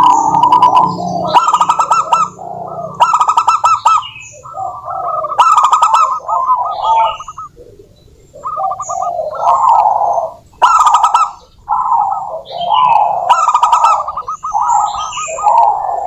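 Zebra doves (perkutut) calling over and over in short phrases. Some phrases are fast rattling trills and others are softer coos, overlapping, with brief pauses between them and higher chirping notes above.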